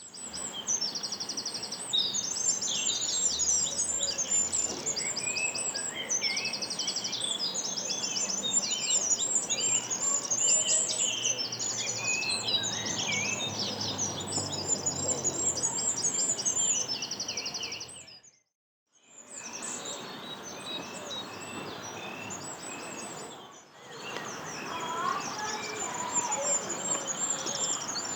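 Small songbirds singing: a dense run of high-pitched chirps and fast trills. The sound cuts out completely for about a second roughly two-thirds of the way through, then the singing resumes.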